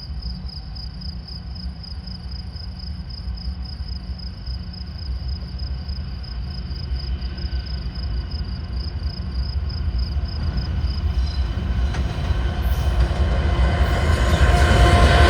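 Union Pacific double-stack freight train approaching. Its low rumble grows steadily louder, with thin metallic wheel squeal building near the end. A high pulsing chirp runs underneath and stops about eleven seconds in.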